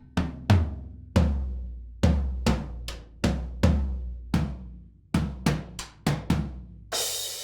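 Sampled acoustic drum hits from the Alchemy of Pop EZX kit in EZDrummer 3, struck one at a time, mostly low ringing tom strikes, about fourteen hits at an uneven pace. Near the end a cymbal comes in and rings on.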